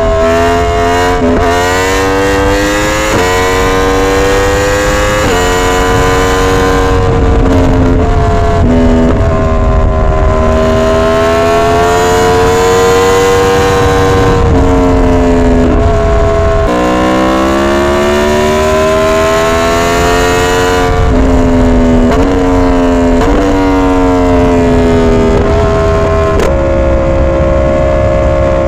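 Yamaha R1 sport bike's crossplane inline-four engine under way, revving up and shifting through gears: the pitch climbs, drops at each shift and climbs again, with a few stretches of steadier running.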